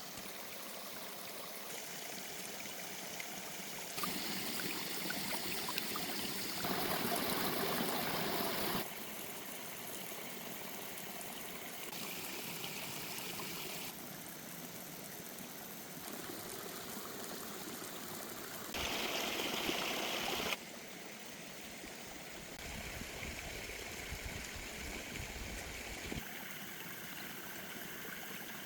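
Running water rushing steadily, its loudness and tone shifting abruptly every few seconds. It is loudest about seven and nineteen seconds in.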